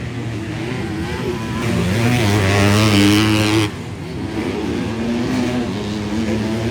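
250-class motocross bikes racing, engines revving up and down. One bike gets louder to a peak a couple of seconds in, and its note cuts off sharply about three and a half seconds in.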